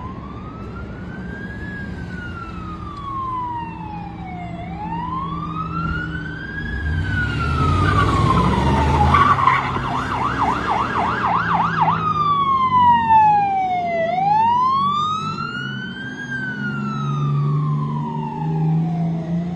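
Fire engine's electronic siren wailing, rising and falling slowly about every five seconds, switching for a couple of seconds near the middle to a fast yelp. The truck's engine rumbles louder as it passes around the middle.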